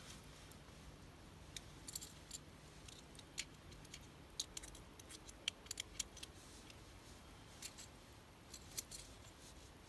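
Wood fire crackling: scattered sharp pops and ticks at irregular intervals, most frequent between about two and six seconds in, over a faint steady background.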